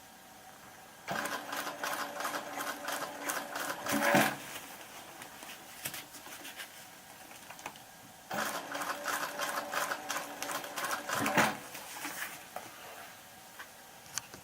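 Sewing machine stitching a zigzag seam around a patch on a wetsuit, running in two bursts of about three seconds each with a pause between.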